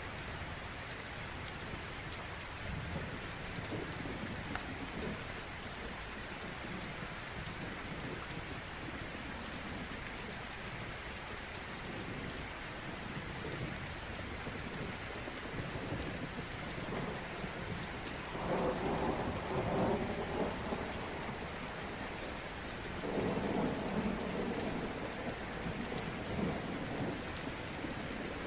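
Steady rain falling, with the scattered crackle of a wood fire. Thunder rumbles twice, about two-thirds of the way in and again a few seconds later.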